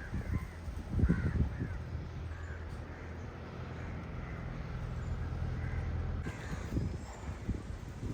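Crows cawing several times over gusts of wind on the microphone, with a low steady hum through the middle.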